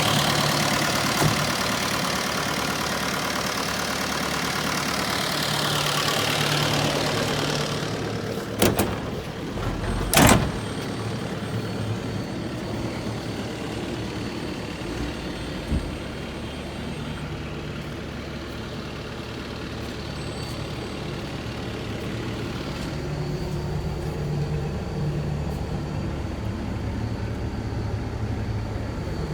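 2018 JCB 85Z-1 midi excavator running: a rough, noisy engine sound for the first several seconds, two sharp knocks about nine and ten seconds in, then the diesel settles to a steadier run.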